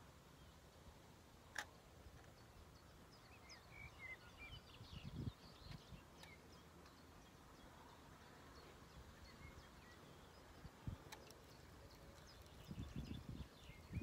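Quiet outdoor background with faint, short bird chirps scattered through, mostly in the middle and again near the end. A sharp click comes about one and a half seconds in, another near eleven seconds, and a few soft low thuds, the loudest about five seconds in.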